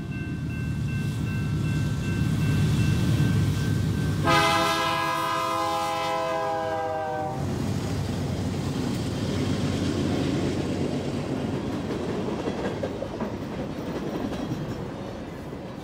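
Freight train led by two GE Dash 9 diesel locomotives passing at speed. The engines rumble louder as they approach, and a long multi-note horn blast of about three seconds sounds a few seconds in. After the horn, the hopper cars' wheels roll by on the rails in a steady clatter.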